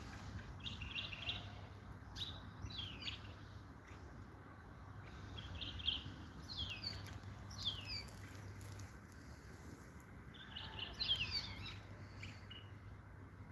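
European goldfinch singing: bursts of quick twittering chirps and falling notes, phrase after phrase with short pauses between them, over a low steady hum.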